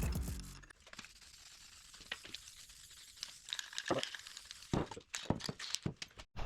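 Background music fading out within the first second, then faint scattered clicks and crinkling handling noises.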